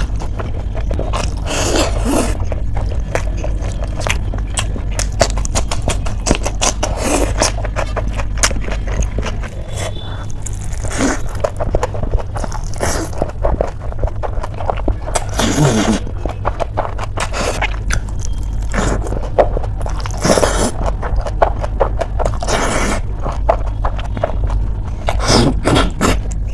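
Close-miked wet chewing and lip smacking of a mouthful of noodles and saucy food, with many irregular short clicks and squishes, and fingers scraping food together on a steel plate. A steady low hum runs underneath.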